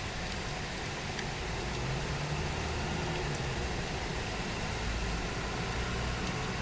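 Steady rain falling, with a low droning hum underneath that grows a little louder about two seconds in.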